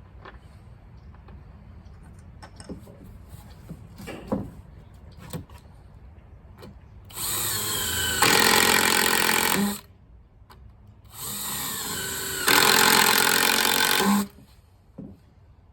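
Power drill running in two bursts of about two and a half and three seconds into a composite deck board. Each burst starts quieter and then steps up louder. A few light knocks come before them.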